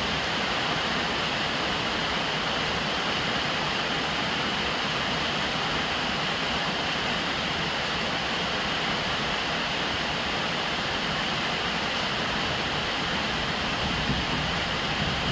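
Heavy rain falling on a roof, a steady, even hiss with no separate drops standing out.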